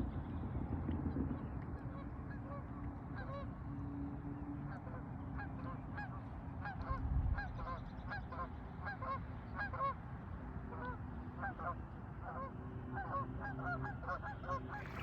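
A flock of geese honking, many short calls overlapping several times a second from about three seconds in, over a low steady rumble of wind and water; a brief low thump comes about seven seconds in.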